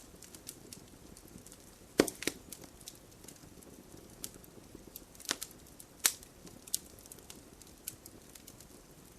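Campfire crackling: irregular sharp pops and snaps of burning wood over a low steady hiss, with the loudest pops about two seconds in and around five and six seconds in.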